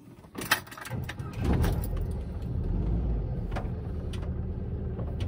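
Air-cooled VW Kombi's 1600cc flat-four engine being started: a brief crank in the first second, then it catches about a second in and runs at a steady idle.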